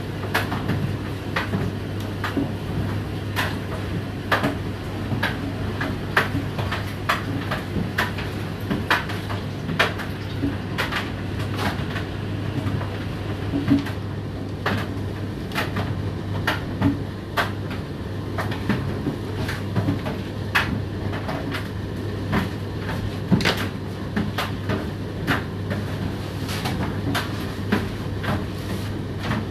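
Indesit IDC8T3 condenser tumble dryer running: a steady low motor hum with irregular knocks and clicks, several a second, as the load tumbles in the drum.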